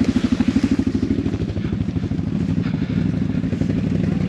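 ATV engine idling, with an even, rapid pulse that is stronger in the first second or two and smoother after.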